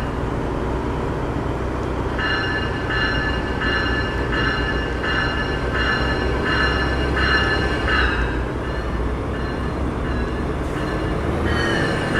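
A train running with a steady low rumble. For several seconds a pitched tone pulses about every 0.7 seconds, and a high squeal sets in near the end.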